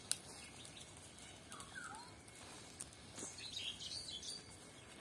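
Faint outdoor ambience with a few short bird chirps: a brief call about a second and a half in and a quick run of higher chirps a little past the middle. A single sharp click comes just after the start.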